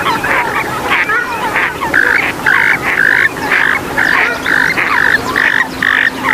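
Swamphen and moorhen calls: a tangle of quick gliding notes, then from about two seconds in a regular series of short calls, about two a second.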